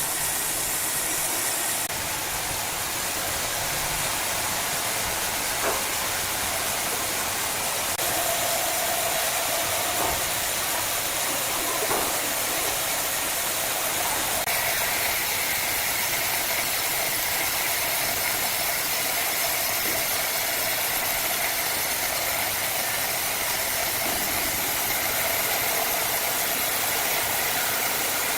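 Wood-cutting saw machine running steadily: a continuous hiss-like machine noise with a faint whine that steps higher about halfway through.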